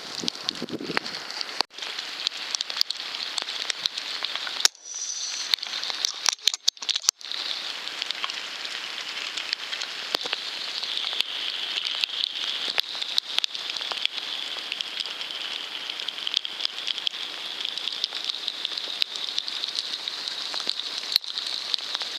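Steady, dense crackling patter like rain, with many scattered sharper clicks; it drops out briefly twice, around five and again six to seven seconds in.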